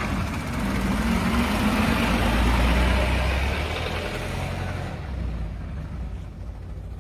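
A car engine running, its note rising over the first few seconds and then easing off, with a steady rush of noise over it.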